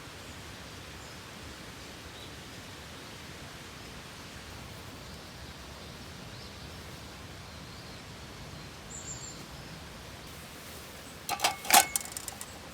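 Steady outdoor background noise, with a brief faint bird call about nine seconds in. Near the end there are a few sharp clicks and knocks.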